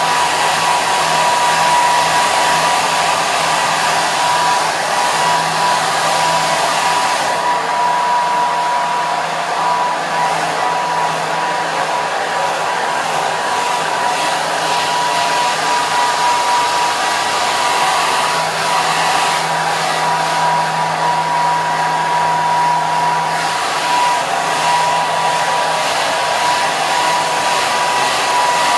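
Hair dryer running continuously: a steady rush of blown air with a constant whine from its motor and fan.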